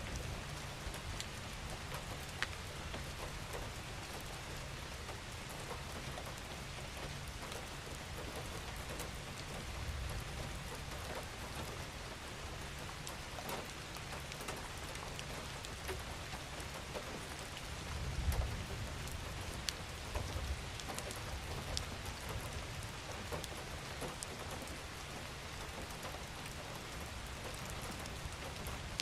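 Steady rain falling, an even hiss with scattered single drops ticking through it. A low rumble swells briefly about two-thirds of the way through.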